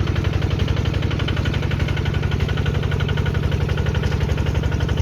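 Single-cylinder diesel engine of an i-taek farm truck running with a steady, even chugging.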